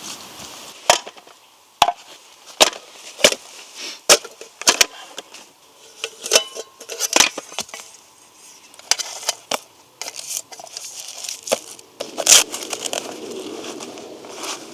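Dry firewood being broken up for a small fire: a string of sharp, irregular wooden cracks and snaps, roughly one or two a second. A steady rushing noise joins near the end.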